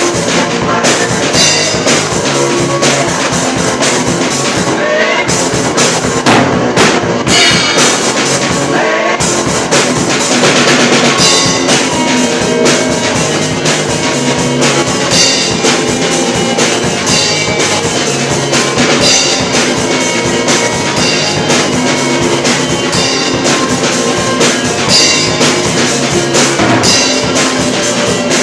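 A live band rehearsing: a drum kit with bass drum playing a steady beat, with guitar.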